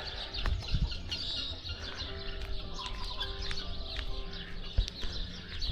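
Many small birds chirping in quick, scattered calls, with chickens clucking, over a steady low hum.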